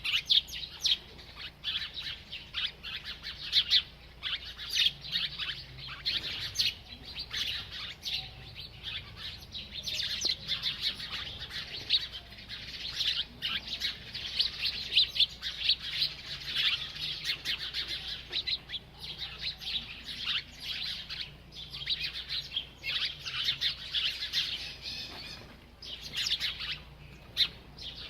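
A small bird chirping rapidly and almost without pause: a stream of short, high chirps.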